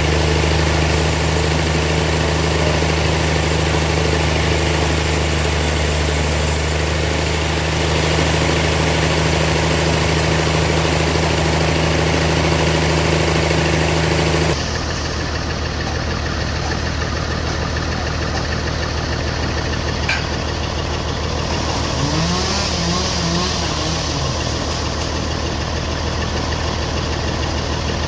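Engine-driven sawmill machinery running steadily, with a low, even hum. About halfway through, the hum changes abruptly to a different steady machine sound with a faster pulse, and a single click comes a little later.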